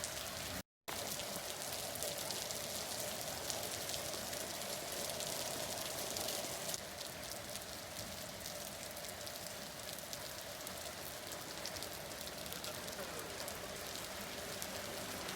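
Rain falling steadily, a dense hiss of drops spattering on surfaces. The sound cuts out completely for a split second just under a second in.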